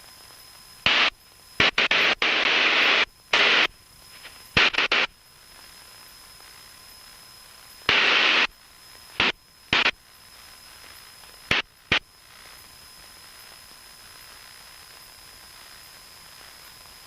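Aviation radio: about a dozen short bursts of static in the first twelve seconds, as the frequency is keyed or the squelch opens without speech. A steady faint hiss follows.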